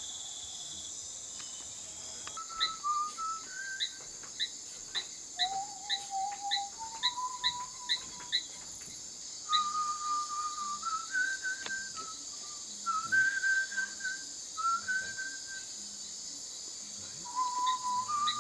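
Someone whistling a slow melody of long held notes that step up and down, over a steady high chorus of insects. Short high chirps repeat about twice a second through the first half.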